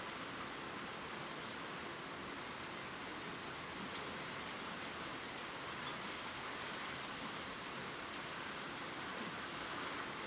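Gentle steady rain falling on leaves, an even hiss with a few light drop ticks.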